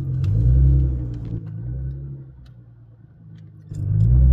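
Nissan GT-R R35's twin-turbo V6 rumbling as the car accelerates: a surge in the first second, easing off through the middle, then a second surge near the end.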